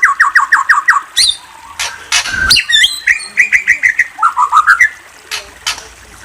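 Murai songbird singing: quick runs of repeated whistled notes, rising glides and sharp clicking notes, quieter in the last second or so.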